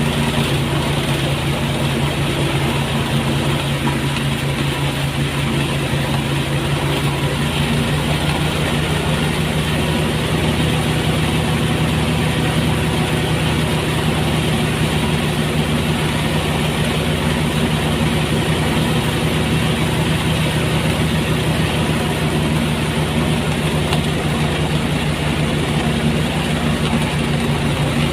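Engine-driven rice threshing machine running steadily at constant speed, a continuous engine hum with a rushing noise over it.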